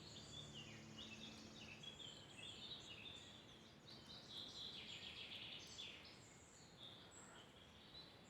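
Faint birdsong: several small birds chirping and trilling over a soft background hiss, with the last low notes of music fading out in the first second or two.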